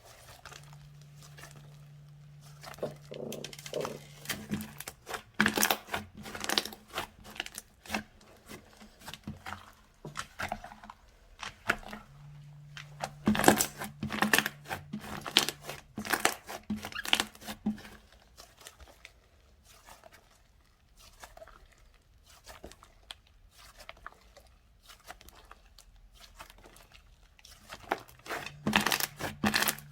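Slime being squeezed, stretched and poked by hand, making irregular crackling and popping clicks.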